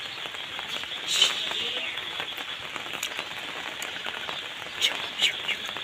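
Steady rain falling, an even hiss of many small drop impacts, with a few sharper, louder taps about a second in and near the end.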